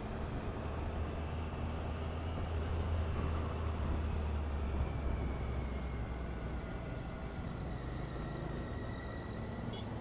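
Triumph Tiger XRx motorcycle's three-cylinder engine running at low road speed beneath the rider, with wind and road noise. The engine hum swells for a few seconds early on, then eases, its pitch drifting gently up and down.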